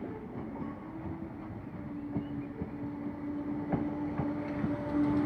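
Merseyrail Class 508 electric multiple unit running along the platform, a steady tone rising in level as it comes closer, with sharp clicks of the wheels over rail joints.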